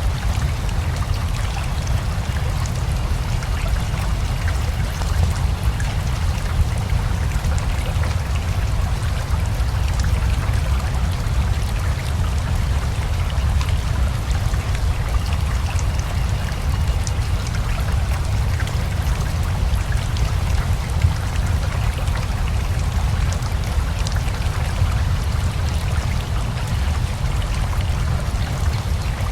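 Steady rain together with a rushing river: a constant wash of water with a deep low rumble and scattered small drop ticks.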